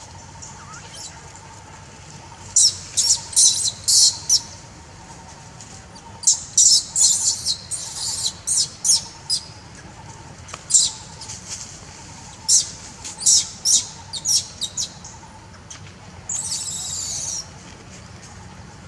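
Small birds chirping in the trees: clusters of short, sharp, high-pitched chirps, with a longer wavering call about a second long near the end.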